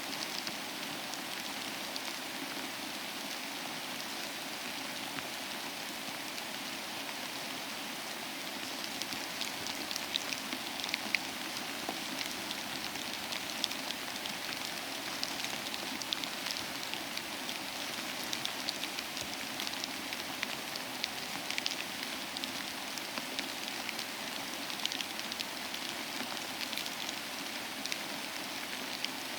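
Steady rain falling, a continuous hiss with sharper individual drop hits standing out from about nine seconds in.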